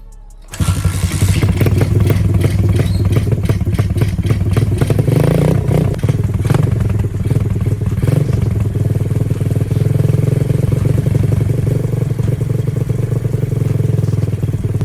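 A 125 cc dirt bike with an aftermarket exhaust idling loudly and steadily, cutting in about half a second in. The engine note rises briefly around five seconds in.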